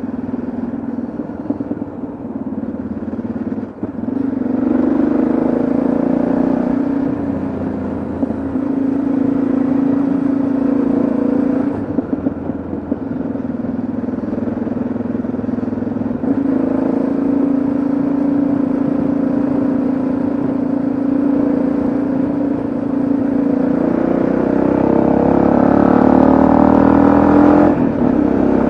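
Yamaha XT660Z Ténéré single-cylinder engine running under way, the revs easing off and picking up again every few seconds, then climbing steadily for several seconds near the end before falling back.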